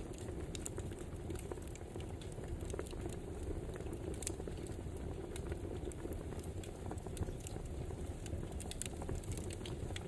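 Wood fire crackling steadily, with frequent sharp, irregular pops and snaps over a low rushing of the flames.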